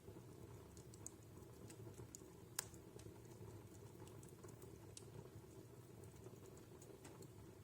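Wood fire burning in a fireplace: faint, irregular small crackles over a low steady rumble, with one sharper pop about two and a half seconds in.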